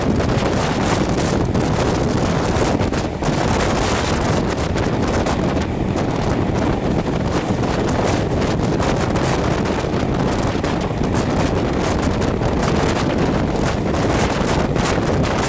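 Rushing air buffeting a microphone held out of the window of a moving locomotive-hauled passenger train, a loud steady roar with fast flutter, the train's running noise blended underneath.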